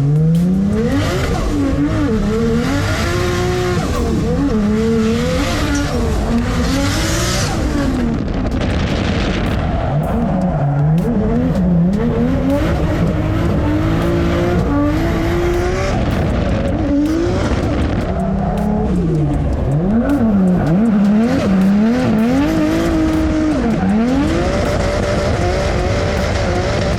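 Drift car's engine revving hard, its pitch climbing and dropping again and again as the throttle is worked on and off through a drift, with tyre squeal.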